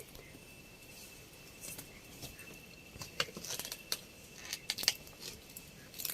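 Scattered light rustling and clicking, busiest in the second half, over a faint steady high-pitched tone.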